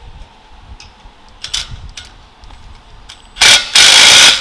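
A few light metallic clicks of tools and exhaust parts, then, about three and a half seconds in, two loud bursts from a power tool working on the exhaust fittings.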